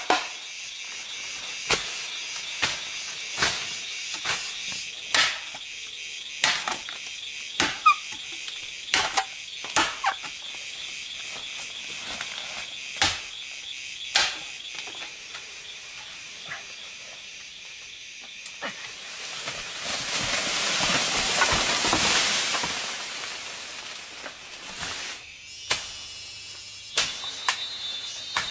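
Insects, such as crickets or cicadas, keep up a steady high buzzing chorus. Over it come sharp knocks, roughly one a second, for the first two-thirds. Near the end a broad rushing noise swells and fades, and a single high steady insect tone takes over.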